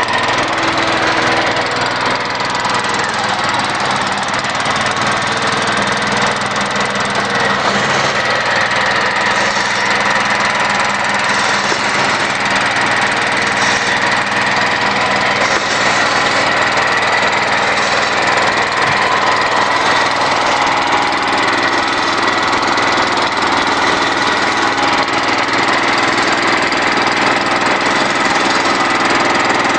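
Small single-cylinder generator engine running steadily on wood gas, loud and unchanging. Its exhaust system leaks, which adds to the noise.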